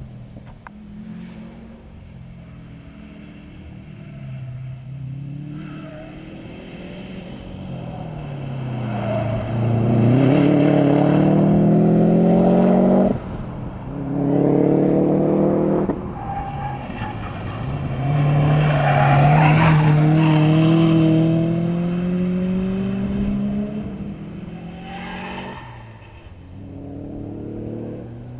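Car engine being driven hard, climbing in pitch under acceleration and dropping back sharply on lift-off or gear changes, several times over, loudest about a third and two-thirds of the way in.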